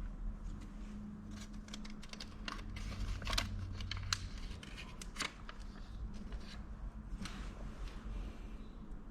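Irregular light clicks and taps of hand work, over a faint low steady hum, part of which stops about four seconds in.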